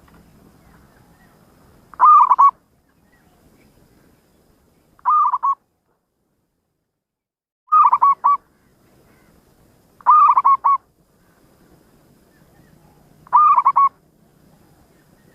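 Zebra dove (perkutut) cooing: five short calls, each a quick run of rolling notes about half a second long, repeated every two and a half to three seconds.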